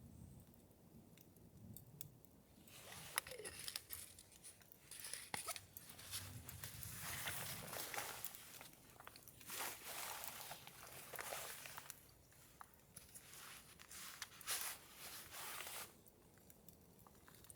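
Rustling and crinkling with small crisp clicks, in several stretches of a few seconds each, quieter at the start and end.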